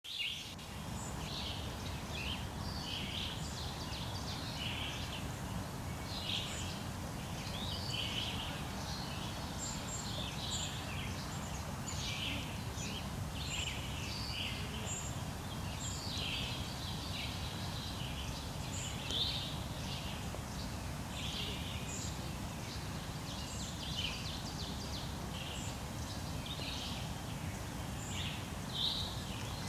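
Several birds chirping and singing in short, scattered phrases, over a steady low rumble.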